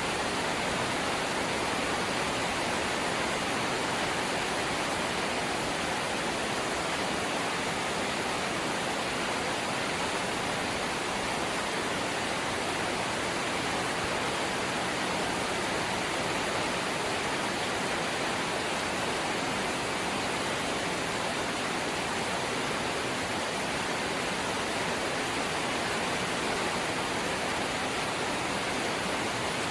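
Light rain falling steadily, an even hiss with no separate drops or changes.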